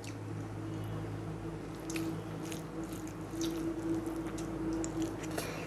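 A person eating close to the microphone: short wet smacks and clicks of chewing and mouthing food, over a steady low hum.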